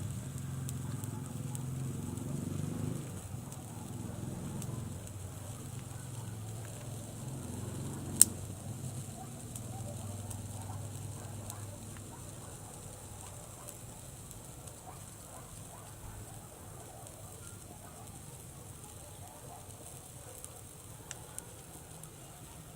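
Campfire burning, with a low rumble that fades over the first half and a sharp pop about eight seconds in, then a fainter click near the end.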